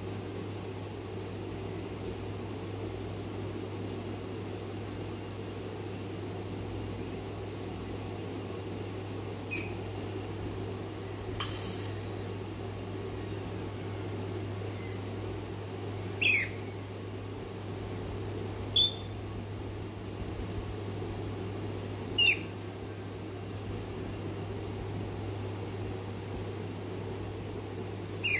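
A parrot giving about six short, shrill calls a few seconds apart, over a steady low background hum.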